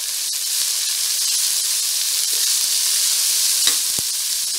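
Cabbage, capsicum, peas and shredded chicken frying in hot oil in a karahi on high flame, a steady sizzle as a metal spoon stirs them; the spoon knocks against the pan twice near the end.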